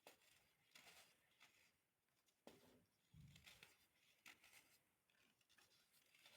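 Compressed baking soda being crushed, a quiet run of short dry crunches and crumbles at irregular intervals, with one soft low thud about three seconds in.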